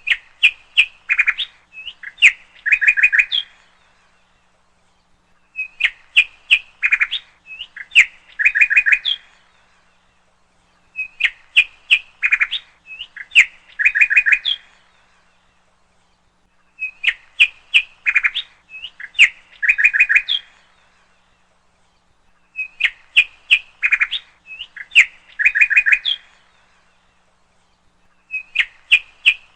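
Bird song: one phrase of quick chirps ending in a trill, repeated identically about every five and a half seconds with dead silence in between, five full times and the start of a sixth, like a looped recording.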